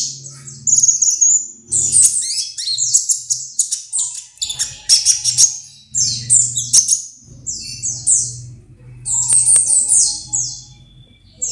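Songbird singing in rapid bursts of sharp, high-pitched chirps and short trills. The phrases last about a second each, with brief pauses between them.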